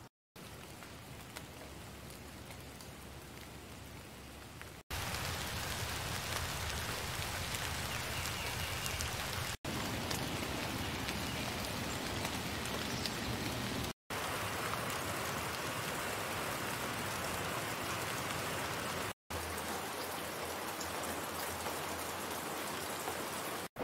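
Rain falling steadily, heard as a run of separate rain recordings that cut over abruptly every four to five seconds. A quieter light-rain take comes first, then louder medium-rain takes from about five seconds in.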